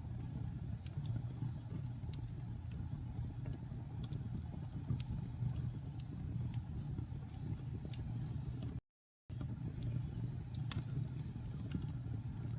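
Wood fire crackling in a fireplace: irregular sharp pops and snaps over a steady low rumble of the flames. The sound cuts out completely for about half a second, roughly nine seconds in.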